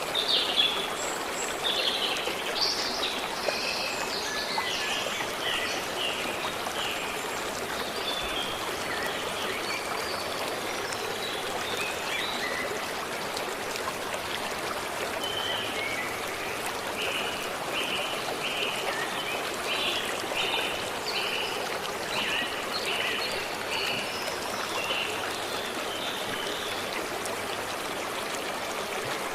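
A stream flowing steadily, with birds singing over it: a burst of song in the first few seconds, and in the second half a run of about ten short repeated notes.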